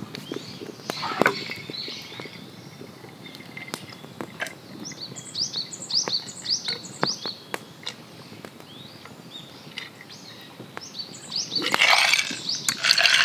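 A small bird singing a quick run of about eight short, high, rising chirps around the middle, over a quiet outdoor background with scattered sharp clicks. A louder stretch of noise comes in near the end.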